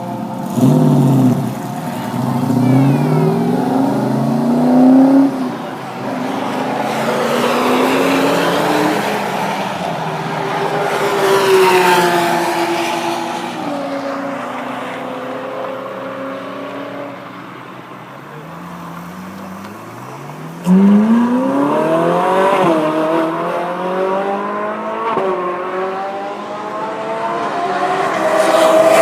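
Performance cars on a race circuit accelerating hard and passing by, the engine note climbing and dropping back at each upshift. One car after another, with a sudden loud car coming through about two-thirds in.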